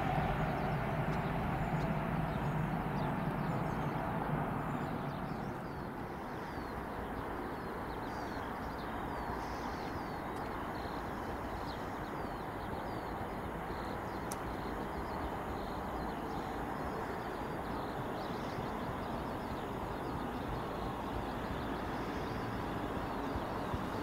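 A passing train fading away over the first few seconds. After that, steady background noise with small birds chirping now and then.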